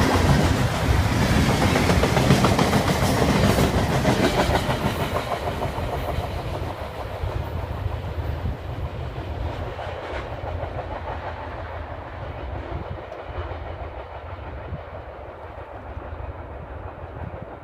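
CSX freight train's cars rumbling and clattering over the rails, fading steadily as the train moves away.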